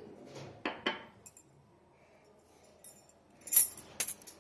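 Kitchen utensils and dishes clinking: a few light clinks about a second in, then two louder, sharper clinks near the end.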